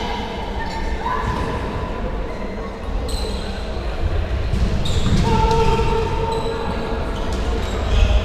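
Football being played in a hall: the ball thumps off feet and the floor a few times, with players shouting and the hall echoing.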